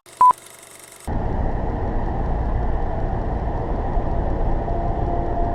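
A short beep, then from about a second in the steady rumble of a car driving: engine and road noise.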